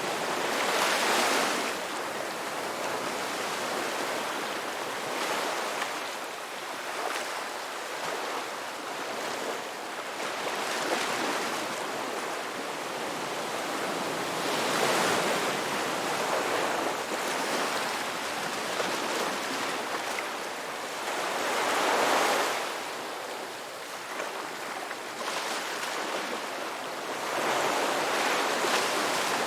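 Ocean surf washing onto a beach: a steady rush of water that swells into louder breaking waves every several seconds, then falls back.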